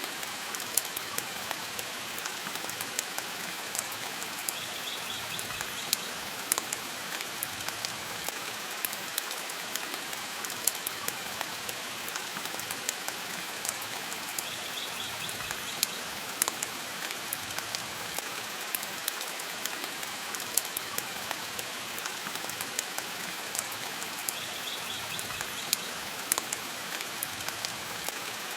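Steady rain and a crackling wood fire: an even hiss with frequent sharp pops and crackles.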